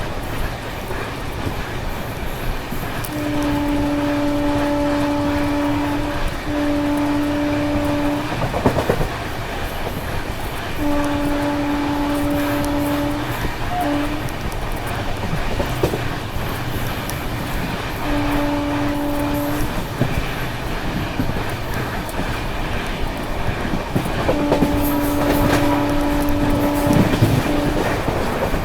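Train running at speed with a steady rumble, and a locomotive horn sounding repeatedly in long steady blasts, about five in all, a couple of them ending with a short toot.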